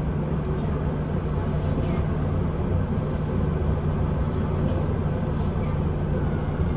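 Kintetsu express train running on the line, heard from inside the front cab: a steady rumble of wheels and running gear with a constant low hum beneath it.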